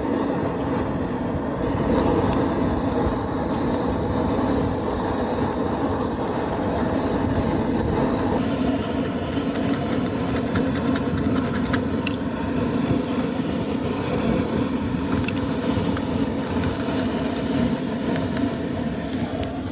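A steady mechanical running noise, like a motor or machine, holding an even level with a low hum, changing character abruptly about eight seconds in.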